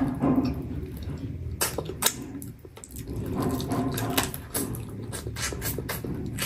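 Close-up wet mouth sounds of a person eating chicken with the fingers: chewing, with many short, sharp smacks and clicks of the lips and tongue.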